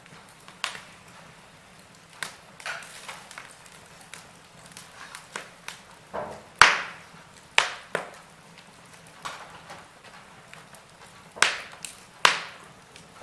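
Wood fire burning in a fireplace, crackling with irregular sharp pops over a low steady hiss; the loudest pop comes about halfway through, with more strong pops near the end.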